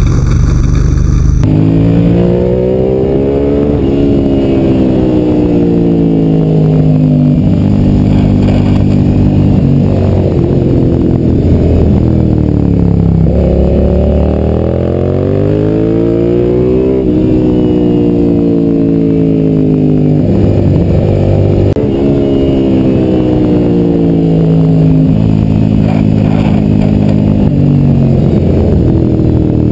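Suzuki SV's V-twin engine pulling hard through the gears, its pitch climbing and dropping back at each upshift every few seconds. About halfway it winds down for a corner, then climbs again.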